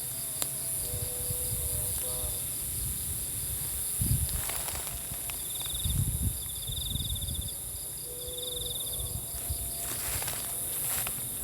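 Night insects, crickets among them, chirping and trilling: a steady high buzz, a rapid pulsing chirp, and three short trills in the second half. Low thuds and rustles break in now and then.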